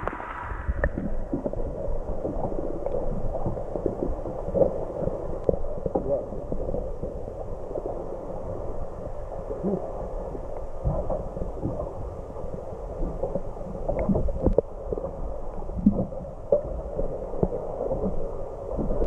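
Muffled water sloshing and gurgling, with a low rumble and many irregular knocks and thumps.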